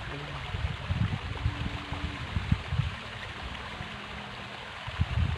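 River water flowing steadily, with scattered low knocks on the microphone.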